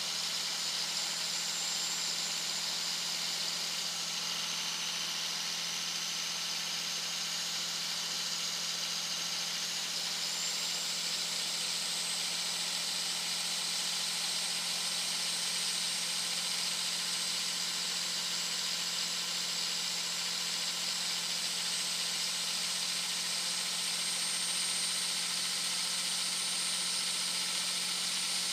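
Turbocharger on a 2001 Dodge Ram 2500's 5.9-litre Cummins inline-six turbo diesel whistling loudly while cruising at highway speed. The high, thin whine dips slightly a few seconds in, then slowly climbs in pitch, over the engine's steady low drone and a rush of road and wind noise.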